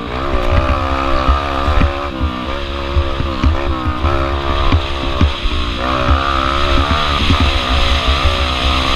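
Small four-stroke pit bike engine, a Yamaha TTR125L single-cylinder, being ridden hard: its pitch climbs and drops again and again as the throttle is worked and gears change, over a low rumble with frequent knocks.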